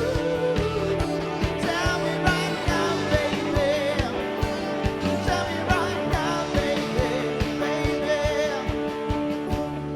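A band playing a pop-rock song: a singing voice over guitar and a steady drum beat.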